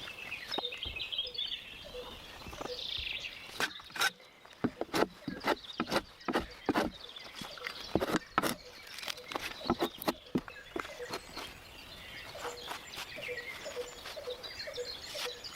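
A run of sharp, irregular knocks and taps for several seconds through the middle, with small birds chirping before and after.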